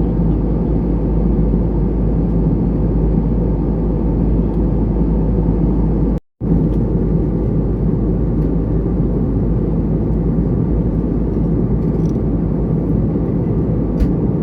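Steady drone of an Airbus A320neo's engines and airflow heard inside the passenger cabin, with a brief total dropout to silence about six seconds in.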